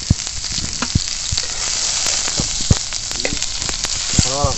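Chopped onion and garlic sizzling in hot oil in a frying pan over a wood fire, with scattered sharp pops, stirred with a metal spatula near the end.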